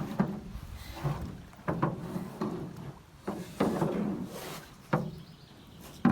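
Irregular hollow knocks and thumps against a canoe's hull, about five over several seconds.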